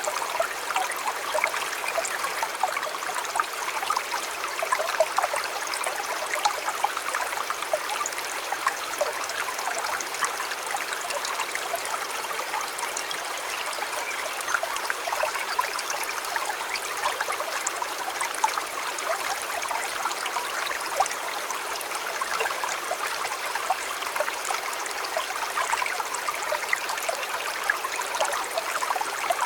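Steady running water of a shallow river or stream, a continuous rushing babble with many small splashes and trickles.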